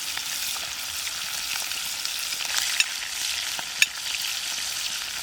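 Fish sizzling as it cooks over a campfire: a steady hiss with a few sharp pops, the loudest about three and four seconds in.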